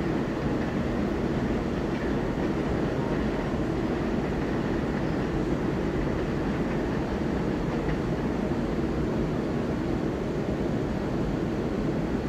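Steady low rumble of an Amtrak train moving away along the tracks, with no separate clanks or horn.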